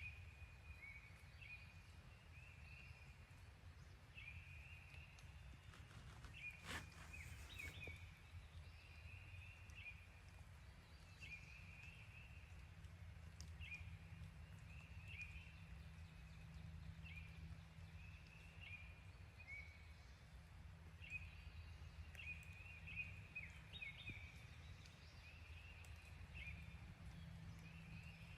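Faint songbirds chirping, short notes repeating about once a second over a low rumble, with one sharp click about seven seconds in.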